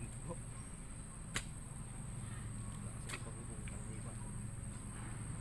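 Steel digging bar (bareta) striking into the soil twice, sharp knocks about a second and a half apart, over a steady high-pitched drone and low rumble.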